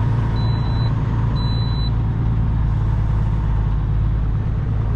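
Semi truck's diesel engine running steadily with a deep hum. Two short high beeps, a second apart, sound in the first two seconds.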